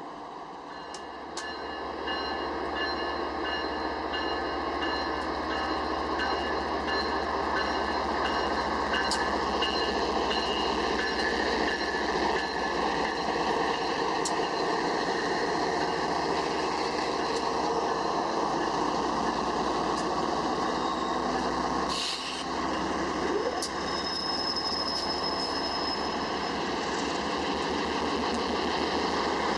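A train rolling by on the rails: steady wheel-and-rail noise that rises about two seconds in and holds, with faint high ringing tones from the wheels in the first half and a short sharp crack near the end.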